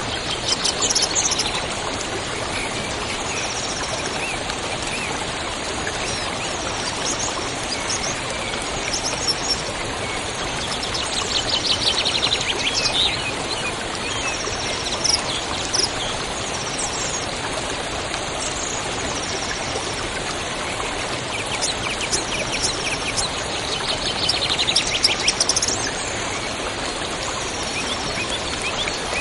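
Steady rushing of flowing water, like a forest stream, with birds chirping over it; a rapid trill stands out twice, near the middle and again near the end.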